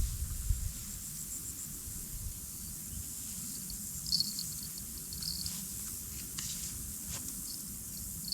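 Crickets chirping in short high trills, off and on, over a steady low rumble, with a couple of thumps in the first half second.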